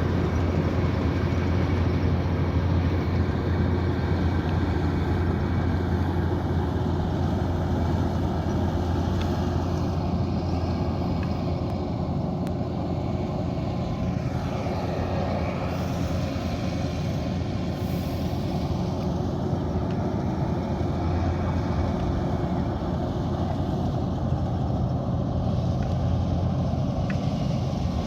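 Kubota DC108X combine harvester running steadily under load, a continuous engine and machinery drone with a strong low hum that eases slightly midway and then comes back.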